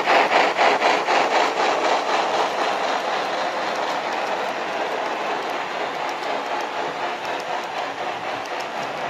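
Model train running on layout track: a rhythmic clicking about four to five times a second over a steady rolling noise, the clicks fading over the first few seconds and the sound slowly getting quieter as the train moves away.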